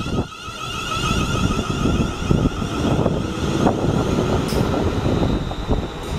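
Electric multiple-unit train passing close by at speed: a steady rumble of wheels and bogies on the track, with scattered clicks and clatter from the rail joints.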